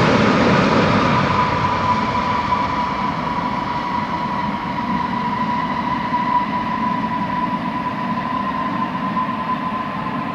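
Boeing 777F's GE90 jet engines running, a steady whine over a broad rush that slowly fades.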